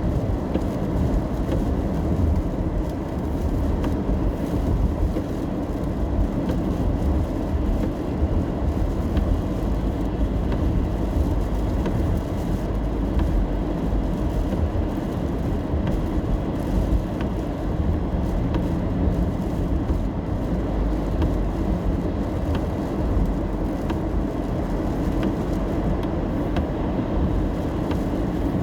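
Steady road noise heard from inside a car driving in the rain: a low rumble of tyres and engine.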